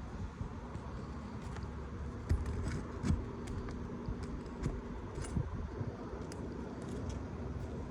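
Scattered light clicks and scrapes of a pry bar working under an asphalt roof shingle to pull its roofing nails, irregular, over a low steady rumble.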